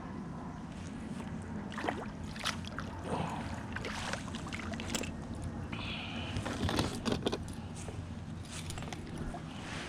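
Scattered light knocks, clicks and scrapes from a fishing kayak and the gear on it, over a steady low hum.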